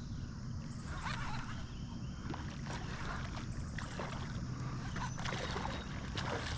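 Creek water splashing and sloshing in a string of short splashes over the steady rush of running water.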